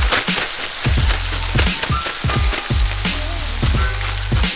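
Breaded walleye pieces frying in a pan of hot oil: a steady sizzle with dense crackling. Background music plays underneath.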